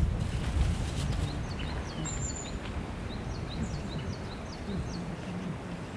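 Small forest songbirds calling over a steady rush of water at a woodland water hole. There are quick, repeated high chirps, and a thin high whistle held about half a second comes twice.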